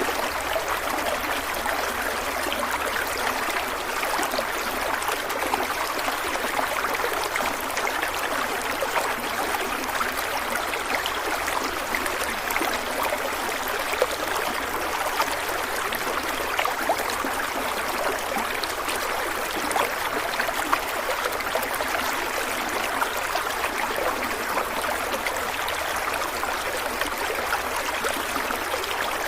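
A stream of water flowing, a steady babble flecked with many small splashes and gurgles.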